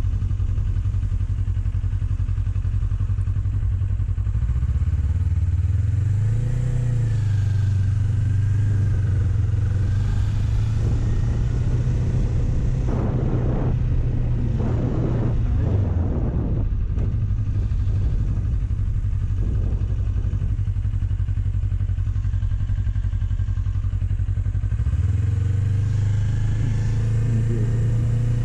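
Kawasaki Ninja 400's parallel-twin engine running while riding. Its pitch climbs about six seconds in, holds steady, then dips and climbs again near the end. A few rushes of noise come midway.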